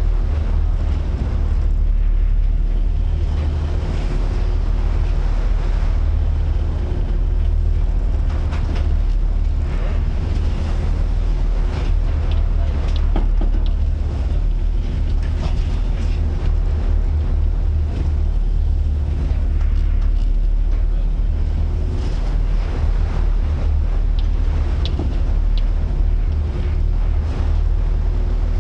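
Strong wind buffeting the microphone at sea in rough weather: a constant deep rumble with the wash of the waves and scattered knocks.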